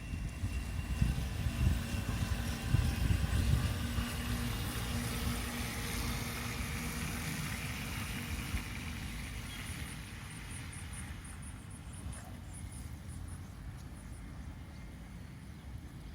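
Wind buffeting the microphone in gusts, strongest over the first few seconds and then easing to a steadier rush. A faint, rapid, high-pitched ticking comes in about ten seconds in.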